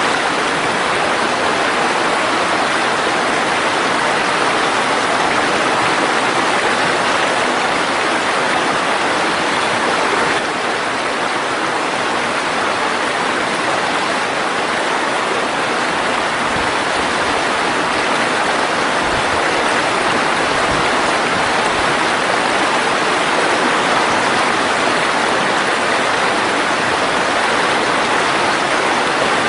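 Mountain valley stream flowing, a steady loud rush of water that dips slightly in level about ten seconds in.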